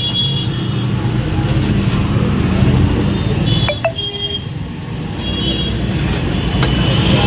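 Steady road-traffic noise: a continuous low rumble of vehicle engines, with a short falling tone about three and a half seconds in.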